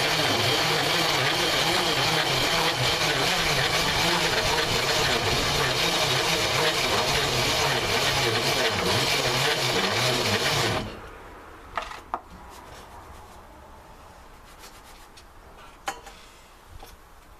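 Bicycle pedal-powered MayaPedal corn grinder grinding corn on its fine setting, a steady rough grinding that stops abruptly about eleven seconds in, leaving a few light knocks.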